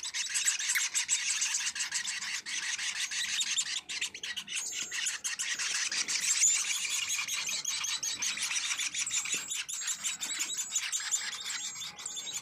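Songbirds chirping and calling in a dense, unbroken chorus of overlapping high chirps, with a string of short repeated whistles in the second half.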